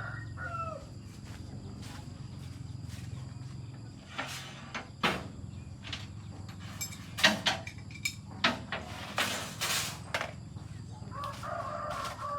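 A rooster crowing, trailing off at the start, with a similar call again near the end. In between come a handful of sharp knocks, over a steady low hum.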